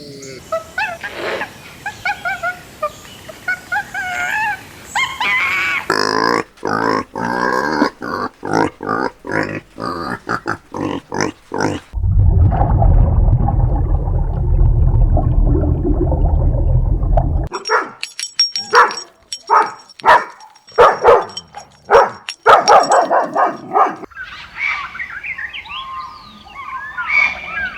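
Farm animal calls in several separate recordings that change abruptly every few seconds, among them barking and grunting, with a heavy low rumble in the middle.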